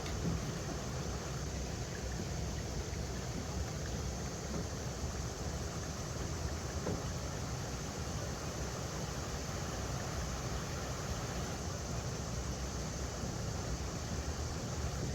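River water rushing over rocks: a steady, unbroken rush with a deep rumble underneath.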